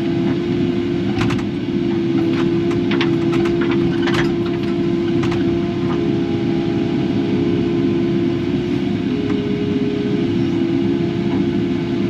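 Kubota KX080 excavator's diesel engine running steadily with a high hum, with a few short clanks or knocks in the first five seconds.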